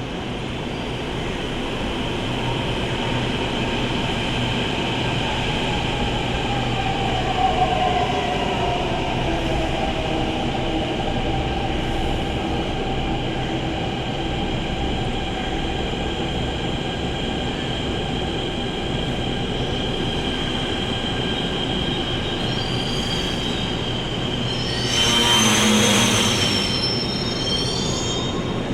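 LHB passenger coaches running along the rails with a steady rumble and thin, continuous wheel squeal. A tone glides downward from about six to ten seconds in, and near the end a brief, louder, shrill squeal rises over the noise.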